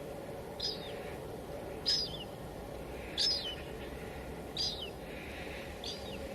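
A bird repeating a short, high call that drops in pitch at its end, five times about a second and a third apart, the last one fainter, over a steady background hiss.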